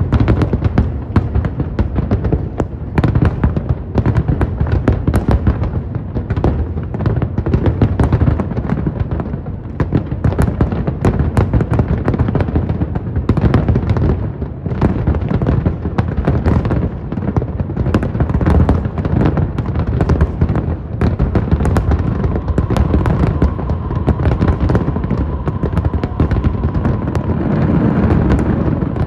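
Aerial fireworks display going off non-stop: a dense, continuous barrage of bangs and crackles with many shells bursting each second. A steady tone sounds under the bangs in the last few seconds.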